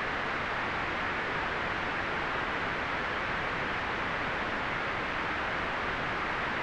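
Steady white noise: an even, unchanging hiss, strongest in the upper middle and soft in the highest treble.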